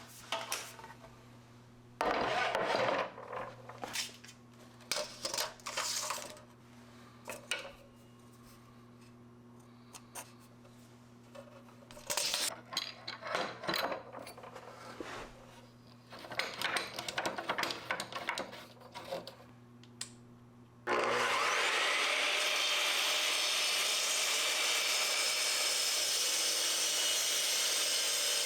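Wood being worked by hand, with irregular scraping and sawing strokes and pauses between them. About two-thirds of the way in, a power tool starts abruptly and runs steadily against the wood, much louder than the hand work, while grooves are carved into the wooden part.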